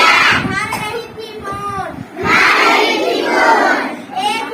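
A group of children singing and chanting together in unison, in loud phrases with a softer stretch about a second in.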